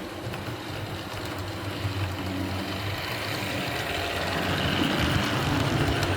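HO scale model train running along the track, a steady hum with rolling noise that slowly grows louder.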